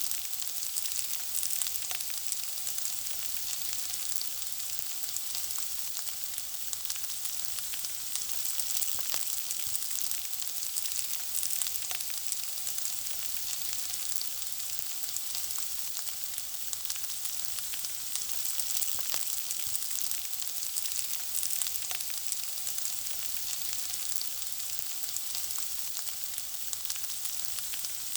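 Food frying in a pan: a steady high sizzle scattered with frequent small crackles and pops.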